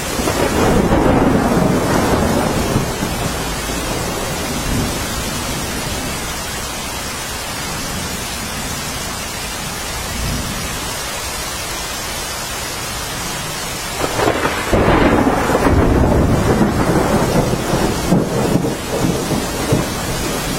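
Steady rain with thunder rolling twice: a low rumble over the first few seconds, then a louder, longer roll starting about two-thirds of the way in.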